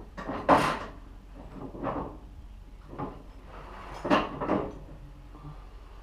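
A few separate knocks and clunks, about four over several seconds, the loudest about half a second in and a double one near four seconds, like objects being handled and set down.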